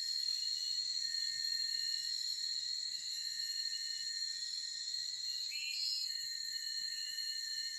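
Forest insect chorus: a steady, high-pitched drone of several held tones, the highest of them swelling and fading every second or two. A short rising call cuts in about five and a half seconds in.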